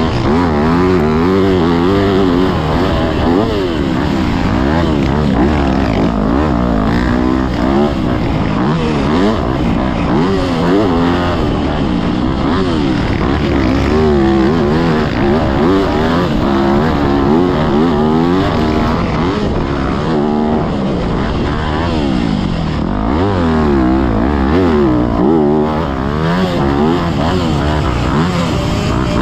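Yamaha YZ250F single-cylinder four-stroke motocross engine heard from on the bike while it is ridden around a track. Its pitch climbs and drops every second or two as the throttle is opened and chopped through the sections, over a steady rush of noise.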